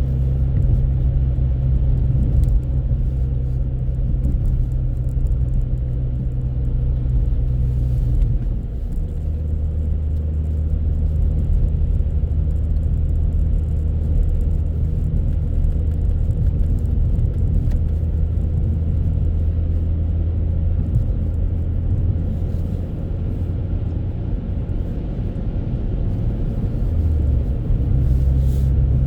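Steady low rumble of a moving vehicle, shifting in pitch about 8 seconds in and again near the end.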